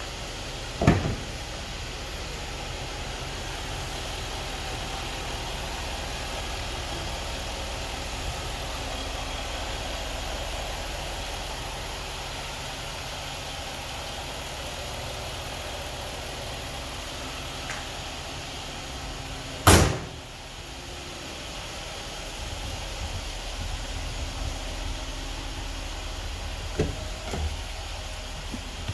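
A car door shutting twice with a solid thud, about a second in and again about 20 seconds in, over a steady low rumble.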